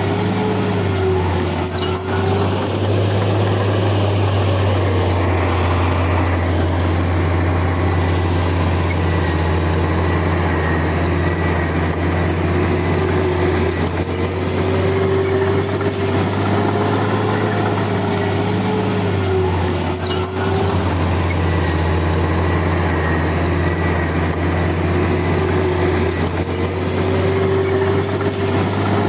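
Komatsu bulldozer's heavy diesel engine running steadily under load, with a higher whine that wavers up and down in pitch and swells every several seconds.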